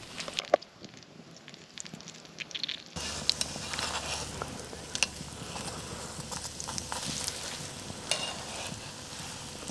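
Fry bread frying in butter and bacon grease in a hot cast iron griddle pan: a sizzle with scattered sharp pops. It is fainter, with only a few clicks, at first, and grows louder and denser about three seconds in.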